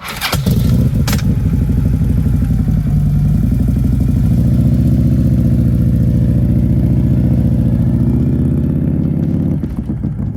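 Motorcycle engine firing up with a few sharp clattering strokes, then running loud and steady at idle.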